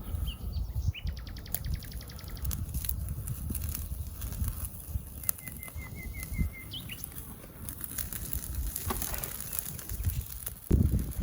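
Small songbirds calling: a fast high trill, then a short run of about seven quick repeated notes, over a steady low rumble with scattered faint clicks.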